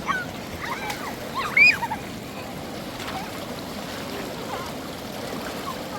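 River water running steadily, with a few short high calls over it, the loudest about a second and a half in.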